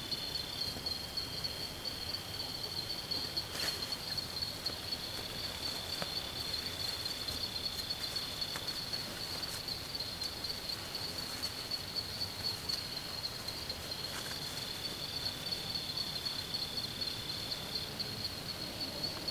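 Insects calling in a continuous high-pitched trill, joined by a second, slightly lower steady buzz that comes and goes. A single sharp click sounds about four seconds in.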